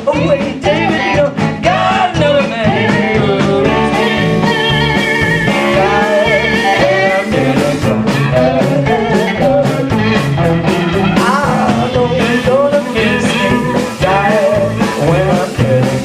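Live band playing a blues-rock song with electric guitar, drums and singing.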